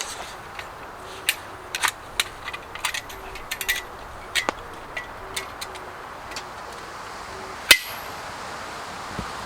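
A run of sharp, irregular clicks and knocks from wood and tools being handled, with one loud hard knock about three-quarters of the way through.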